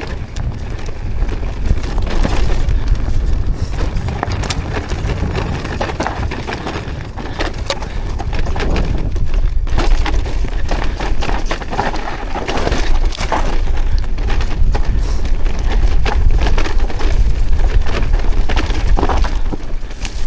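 Wind buffeting the microphone of a camera riding on a mountain bike, with the tyres crunching over a rough trail and the bike rattling and knocking over bumps.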